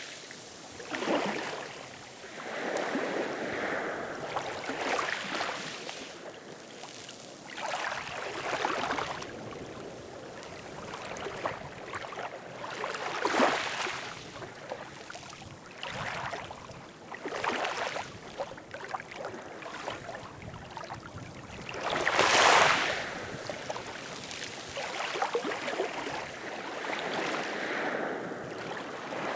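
Ocean waves washing and splashing in irregular surges every few seconds, the loudest about twenty-two seconds in.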